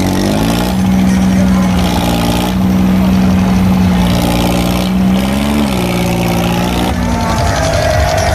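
Tractor engine running hard at high revs, a steady loud drone that rises briefly in pitch about five seconds in and then settles back, with voices near the end.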